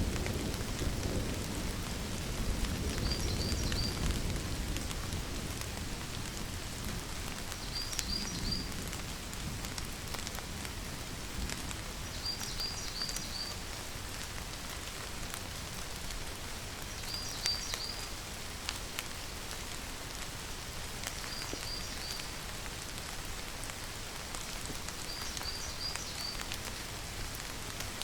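Steady rainfall, with a low rumble of thunder dying away over the first few seconds. Short high chirps, three or four at a time, recur about every four seconds over the rain.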